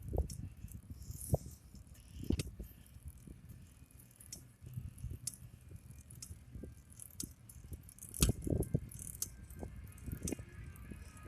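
A bicycle rattling and clunking as it rolls over bumps, with irregular sharp knocks over a low rumble; the hardest knocks come at the start, at about one and a half and two and a half seconds, and again about eight seconds in.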